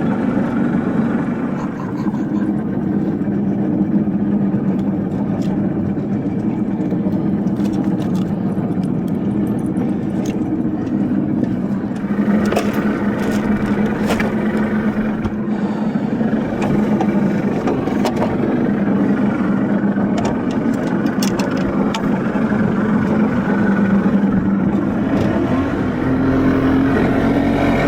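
An engine running steadily at an even speed, with a constant low hum; its pitch shifts slightly about halfway through and again near the end.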